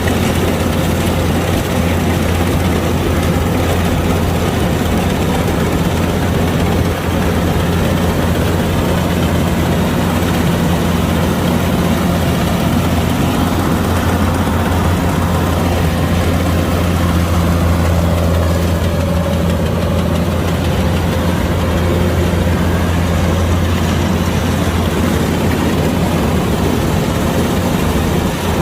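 Kubota DC-105X rice combine harvester running steadily, its engine holding a constant low hum under the noise of the machine.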